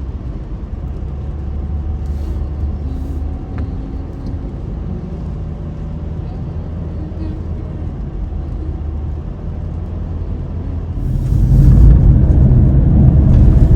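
A car driving along the road: a steady low rumble of engine and tyres, which grows louder about eleven seconds in.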